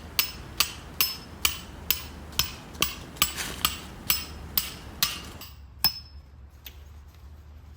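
A hammer driving a metal tent peg: about a dozen sharp strikes, roughly two a second, each with a short metallic ring, stopping about six seconds in.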